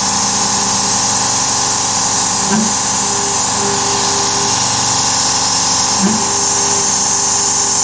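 Carvera Air desktop CNC mill running steadily as its spindle and end mill cut the part's profile, under a constant hiss from the air assist blowing chips away. Faint tones in the cut shift briefly twice.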